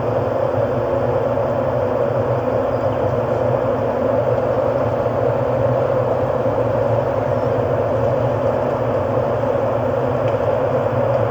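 Steady ambient drone: an unchanging, hiss-like wash with a low hum beneath it.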